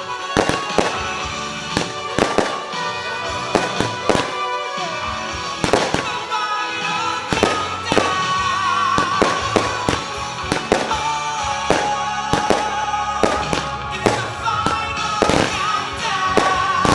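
Fireworks display: a rapid, continuous string of firework bangs, several a second, with music playing alongside.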